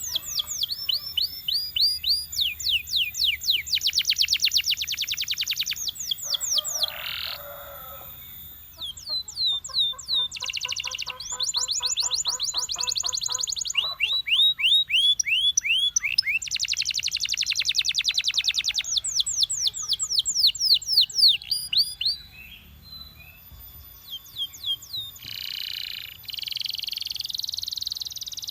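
Belgian canary singing a long song of rapid trills, each a quick run of the same sweeping note repeated many times a second, switching to a new trill every second or two. A lower rattling trill sits under the high notes about ten seconds in, and the song eases briefly near the middle and again late on.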